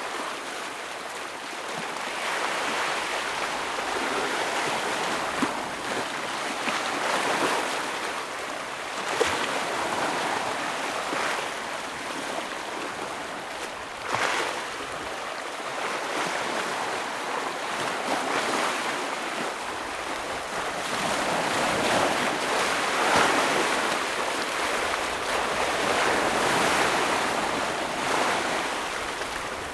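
Ocean waves surging and crashing against rocks, a continuous wash that swells and falls every few seconds, with a few sharper splashes.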